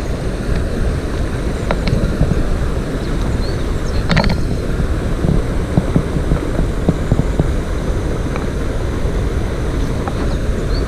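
Steady rushing of a mountain stream, deep and continuous, with wind buffeting the microphone. A few short sharp clicks sound over it, the clearest about four seconds in.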